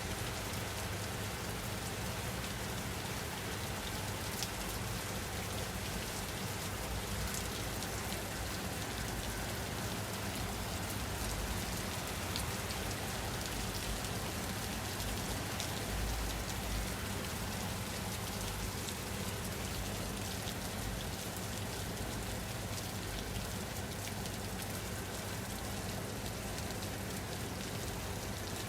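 Steady rain falling on a surface, an even hiss with scattered drop ticks over a low rumble.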